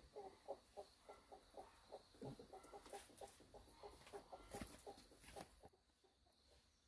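A chicken clucking in a quick, even series of short clucks, about four a second, that stops about five and a half seconds in.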